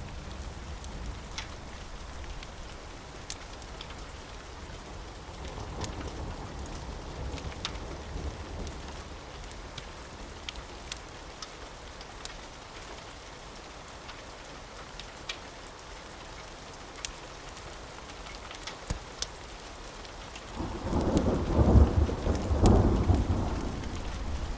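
Steady rain with scattered sharp ticks and a faint low rumble of thunder. About 21 seconds in, a louder roll of thunder rumbles for three or four seconds.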